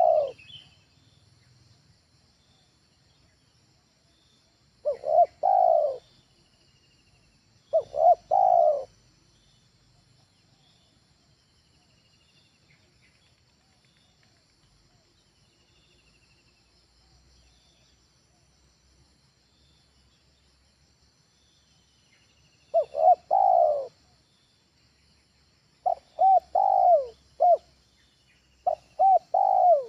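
Spotted dove cooing: short phrases of two or three low coos, with several seconds of pause between phrases and one long gap in the middle. A faint steady high buzz runs underneath.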